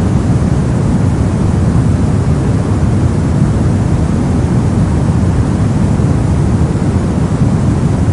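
Steady 'soft noise' for sleep and study: an unchanging rushing hiss weighted toward the low end, deep rather than bright, with no events or changes.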